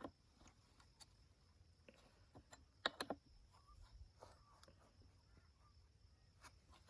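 Near silence with a few faint metallic clicks, the clearest a close pair about three seconds in: a chainsaw spanner tightening the bar nut on a chainsaw's cutter bar.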